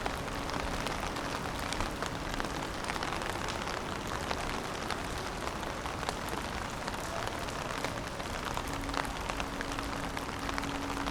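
Steady rain falling, with many small drop impacts ticking over a constant hiss. A faint low steady hum grows a little stronger near the end.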